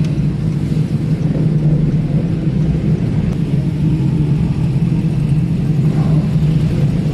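Vehicle running steadily on the road, a constant low engine drone with road and wind noise.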